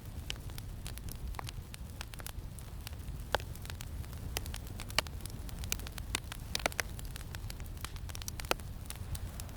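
Campfire crackling, with irregular sharp pops and snaps scattered through, the strongest about three and five seconds in, over a steady low rush of wind.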